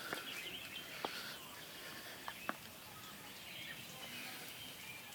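Birds chirping and singing outdoors, with a few short sharp clicks.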